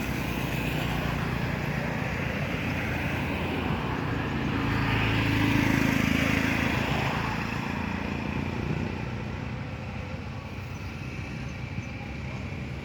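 A motor vehicle's engine passing by, a low steady hum that grows louder about halfway through and then fades.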